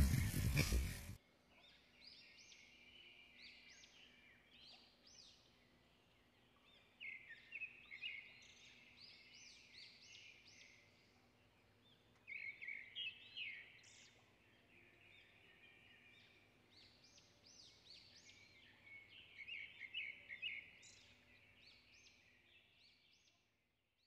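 A loud sound cuts off sharply about a second in. After it, small birds chirp faintly in repeated flurries of quick, rising calls over a faint steady hum.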